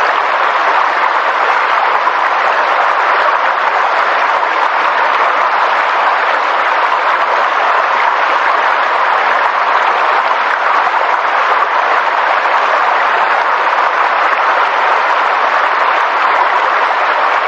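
Steady, even rushing of water, with no change throughout.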